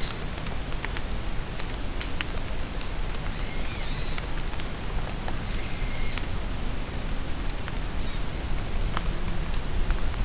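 Steady rain in a forest, a continuous hiss with scattered sharp drop taps. A songbird calls twice, about three and a half and six seconds in, and faint high chirps follow near the end.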